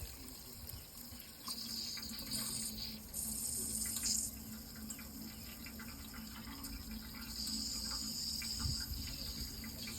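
Running water, with insects trilling in stretches that start and stop over it.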